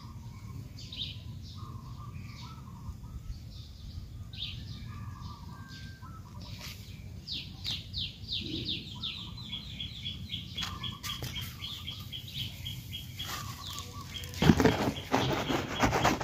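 Wild birds calling and chirping, with a fast run of repeated high notes in the middle, over a low steady outdoor rumble. Near the end a loud rustle breaks in.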